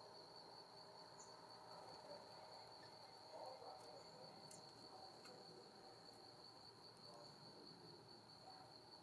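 Faint, continuous high-pitched insect trill on one steady pitch, like a cricket, over a quiet background with a few faint ticks.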